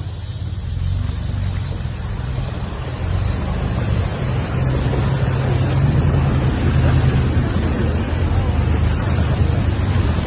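A vehicle engine running steadily under heavy wind noise on the microphone, which grows louder about three seconds in.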